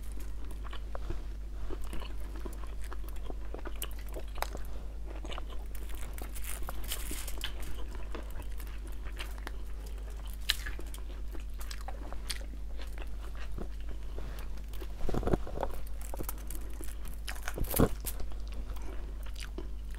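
Close-miked chewing of food eaten by hand, with many small clicks and crunches and a few louder bites late on.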